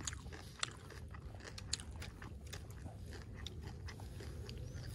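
A person chewing chatpate, a crunchy spicy puffed-rice snack, close to the microphone: scattered small crunches and clicks.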